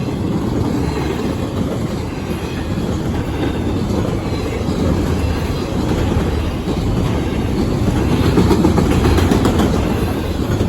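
CSX intermodal freight train's cars rolling past: a steady rumble of steel wheels on rail with clickety-clack over the rail joints, swelling a little near the end.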